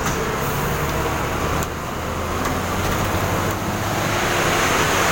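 Heavy diesel engine running steadily, with broad road-and-machinery noise that swells near the end.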